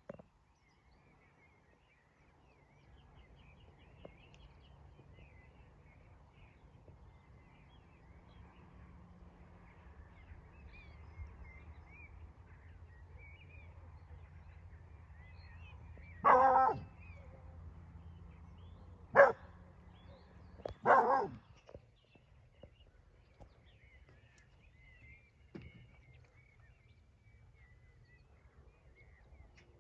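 A dog barks three times, loudly, a little past halfway, the last bark doubled. Underneath are a low steady hum that fades out after the barks and faint birdsong.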